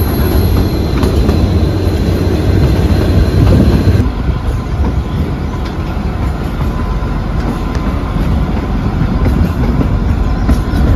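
Kalka–Shimla narrow-gauge toy train running along its track: a steady, loud rumble of wheels on rails that eases off a little about four seconds in.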